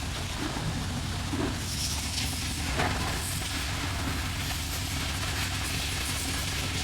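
Harley-Davidson motorcycle engine running steadily, low in pitch, with an even hiss over it.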